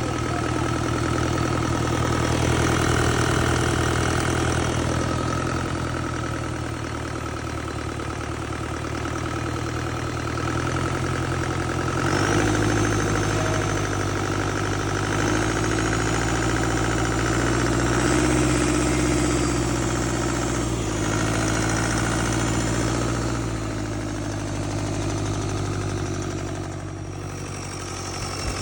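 Diesel engine running steadily near idle. Its note steps up a little about twelve seconds in and settles back down later, and a faint high whine comes and goes while it is raised.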